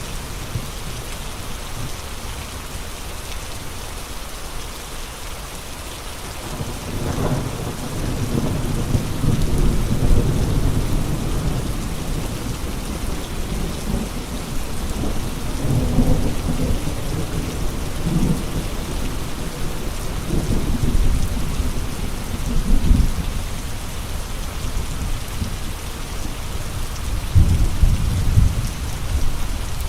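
Steady rain with gusting wind: a constant hiss of rain under low rumbling surges that swell and fade repeatedly from about seven seconds in, the strongest near the end.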